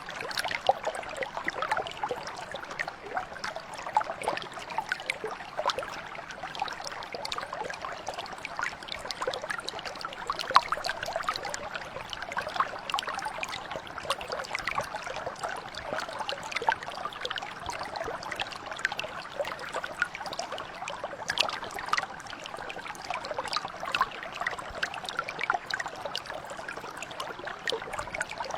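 Mountain brook flowing steadily, with a constant babble of small splashes and trickles over stones.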